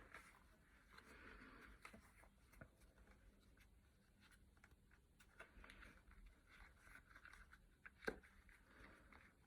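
Near silence with faint handling noises: soft rustles and small clicks of a plastic action figure being turned over in the hands, with one sharper click about eight seconds in.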